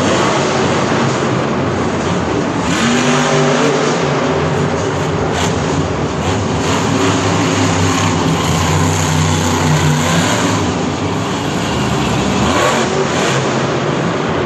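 Monster truck engine running loud and revving, a dense roar with a pitched drone that rises a little from about three seconds in and fades out about ten seconds in.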